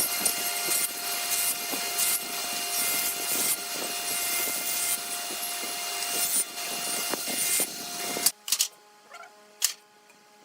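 Electric woodworking power tool running while working wood, a steady motor tone under rough, uneven cutting noise. It cuts off suddenly near the end, leaving a few faint knocks.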